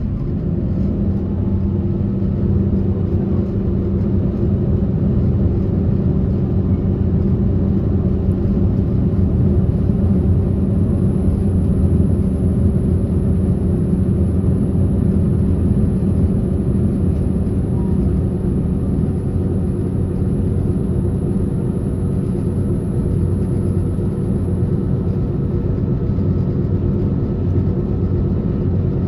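Passenger train running at speed, heard from inside the carriage: a steady rumble of wheels on rail with a low, even hum. A faint high-pitched whine fades in about a third of the way through and fades out near the end.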